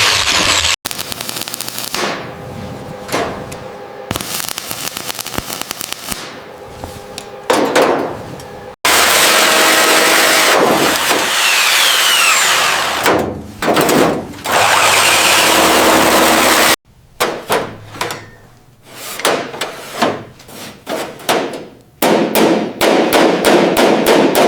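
Workshop tool sounds in three abruptly cut stretches: scattered taps and clicks, then about eight seconds of loud continuous rushing noise, then a run of quick, sharp hammer strikes.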